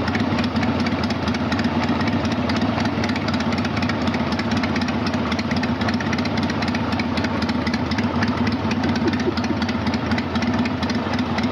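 Harley-Davidson Sportster 883's V-twin engine idling steadily.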